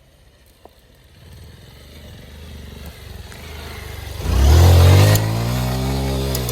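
A vehicle engine grows louder as it approaches, then runs loud and close with a steady note from a little after four seconds in.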